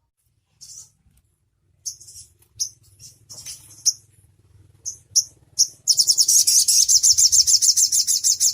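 Konin songbird calling: scattered sharp, high chirps, then a loud, rapid high trill of about ten notes a second that starts about six seconds in.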